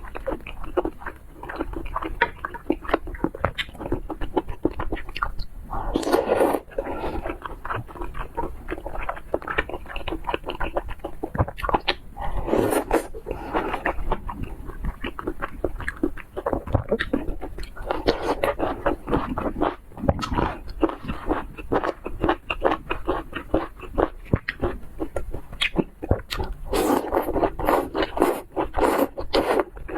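Close-miked mukbang eating sounds: rapid wet chewing and smacking of seafood, with a few louder slurps about six seconds in, around thirteen seconds, and again near the end.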